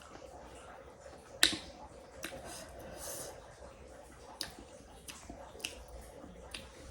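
A few short, sharp clicks or taps at irregular intervals, the loudest about a second and a half in, over a faint steady background.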